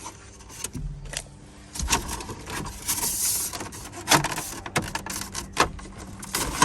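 Plastic instrument cluster bezel being worked loose from the dashboard: a run of sharp clicks, knocks and rattles, with a scraping stretch about three seconds in.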